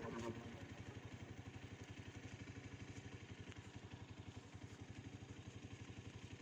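Spark SP200R-28 motorcycle engine idling faintly, an even, steady low pulse of about a dozen beats a second.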